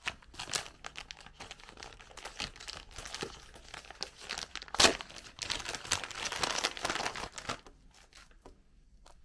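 Wrapping material being handled, crinkling and tearing in irregular crackles, with one sharper rip about five seconds in. It fades to a few faint clicks near the end.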